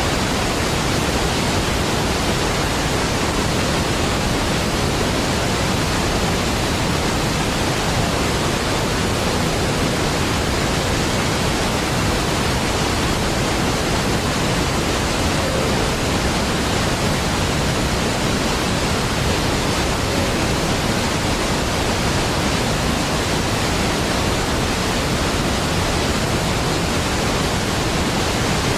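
Large waterfall: a steady, even rush of falling water with a deep low end and no breaks or changes.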